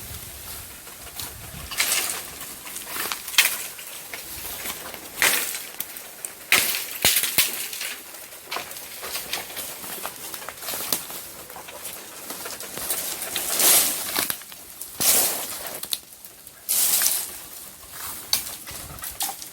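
Thorny bamboo being cut down: irregular sharp chops and cracks, about a dozen strong ones, with the stems and leaves rustling between them.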